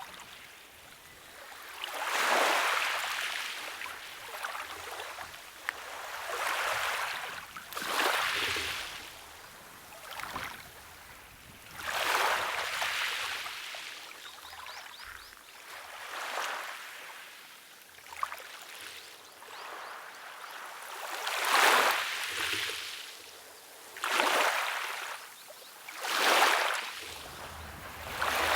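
Small waves washing in and drawing back, each surge a hiss that swells and fades, about eight times at uneven intervals of a few seconds.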